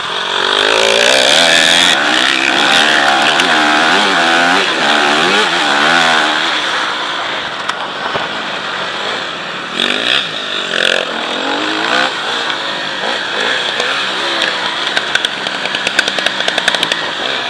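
Motocross motorcycle engine revving hard, its pitch rising and falling again and again as the rider works the throttle and shifts. A rapid run of sharp clicks comes near the end.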